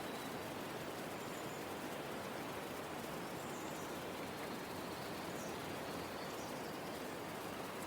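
Steady outdoor ambient noise, an even hiss, with a few faint, short, high bird chirps scattered through it.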